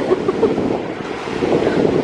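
Wind buffeting the microphone in a steady, fluttering rush, with the wash of surf beneath it.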